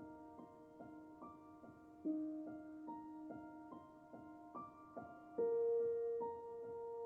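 Quiet, slow piano background music: gentle single notes about every half second over held lower notes, with a louder low note struck about five and a half seconds in.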